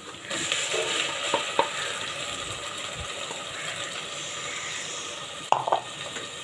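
Ground masala paste dropping into hot oil and browned onions in a steel pressure cooker and sizzling steadily from just after the start, with a few sharp knocks and scrapes of the spatula against the metal.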